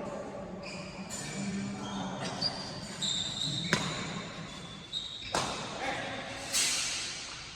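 Badminton rally in an indoor hall: a few sharp racket strikes on the shuttlecock, with short high shoe squeaks on the court between them.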